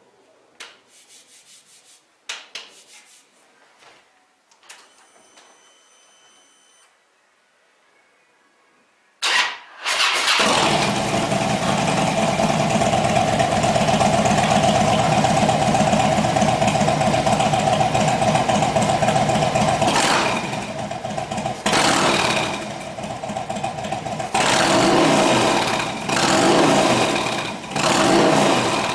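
Harley-Davidson FXDL Low Rider V-twin with a Bassani aftermarket exhaust being started. After some faint clicks, the starter cranks briefly about nine seconds in and the engine catches, then idles loudly with a deep bass beat. Several short throttle blips come in the last third.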